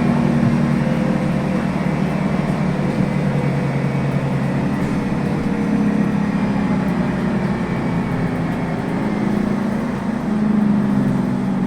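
Scania N280UB city bus with a compressed-natural-gas engine, heard from inside the passenger cabin while driving. Steady engine drone over road and tyre noise, swelling slightly near the end.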